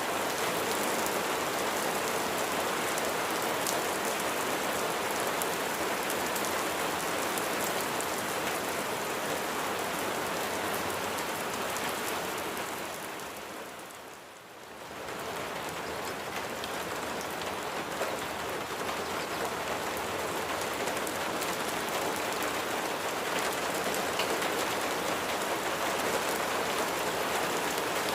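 Steady, dense rain falling and pattering on surfaces. About halfway through it fades down briefly and swells back up.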